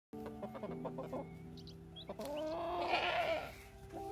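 Chickens clucking, with one longer wavering call from about two to three and a half seconds in.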